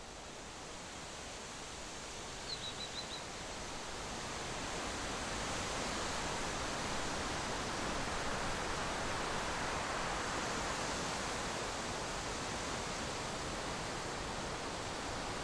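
Steady outdoor rushing noise that grows louder over the first few seconds, with a quick run of four high bird chirps about two and a half seconds in.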